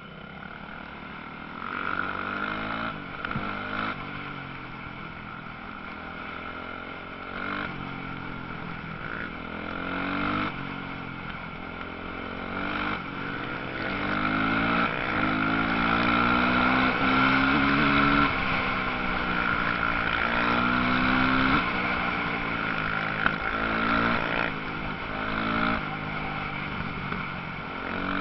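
Several motocross bike engines revving up and down through gear changes as the bikes race, the sound swelling to its loudest around the middle as they pass close.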